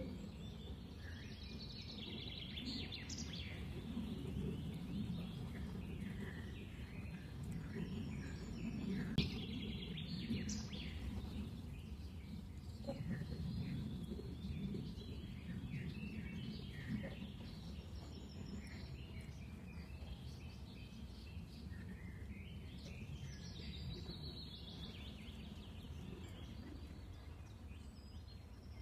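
Several small birds chirping and calling in short, overlapping bursts, over a steady low background rumble.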